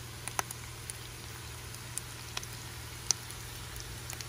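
Corn tortilla tacos shallow-frying in coconut oil in a pan: a steady sizzle with scattered small pops, over a low steady hum.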